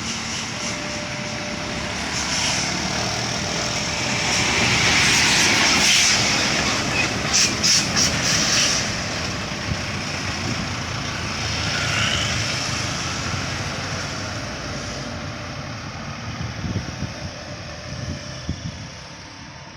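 A heavy vehicle passing close by, its engine and road noise swelling to a peak about five seconds in and then slowly fading, with a few short, sharp bursts of noise near the peak.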